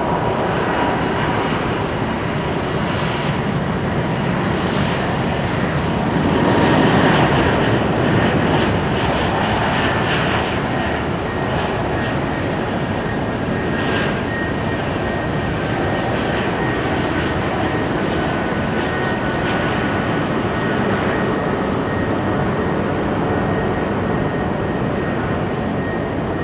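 Jet airliner engines running, with a steady high whine over the noise, loudest about seven seconds in.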